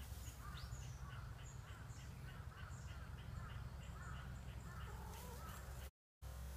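Birds calling outdoors, short calls repeating two or three times a second over a faint steady low hum; the sound cuts out briefly near the end.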